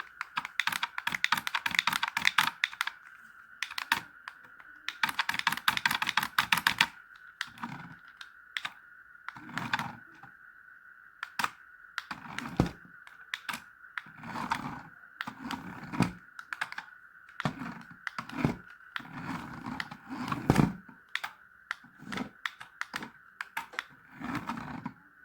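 Rapid clicking in two dense bursts, then scattered separate clicks and knocks, over a steady high-pitched whine.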